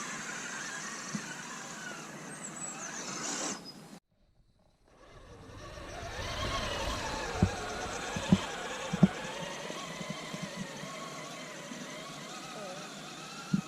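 Electric motor and gear drive of a 1/10-scale RC rock crawler whining, rising and falling in pitch with the throttle. A few sharp knocks come from the truck striking hard surfaces, the loudest about halfway through. The sound cuts out abruptly for about a second a little over a quarter of the way in, then builds back.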